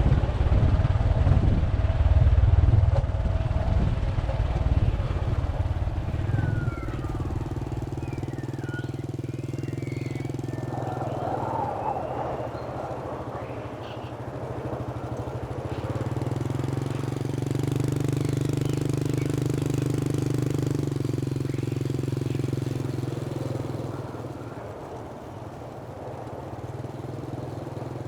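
Motorbike engine running on the move, with heavy wind rumble on the microphone for the first several seconds. After that a steady engine drone swells and fades as the bike rides on.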